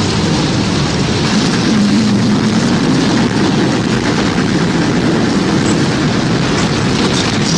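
Tornado sound effect: a loud, steady rumbling wind roar, heavy in the low end, like a passing freight train, with a faint low wavering tone about two seconds in.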